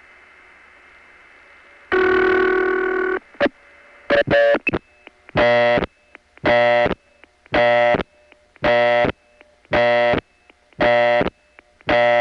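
Telephone line audio from a long-distance call reaching a supervision test line: faint line hiss, then about two seconds in a steady buzzy tone for about a second, a few clicks, and then a harsh interrupted tone going on and off about once a second.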